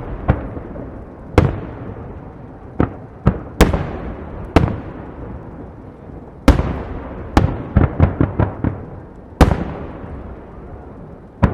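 Aerial firework shells bursting in a display: about ten loud bangs at irregular intervals, each followed by a rolling, rumbling echo. About eight seconds in comes a quick run of smaller cracking pops.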